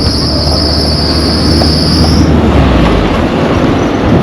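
A steady, high-pitched insect shrill that cuts off suddenly about halfway through, over a continuous rush of wind noise on the microphone.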